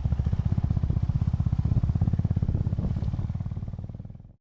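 Motorcycle engine running with a fast, even pulse, fading away near the end.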